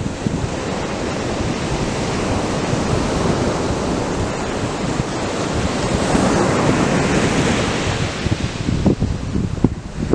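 Atlantic surf breaking and washing up the beach: a continuous rush that swells about two-thirds of the way through. Wind buffets the microphone in short gusts near the end.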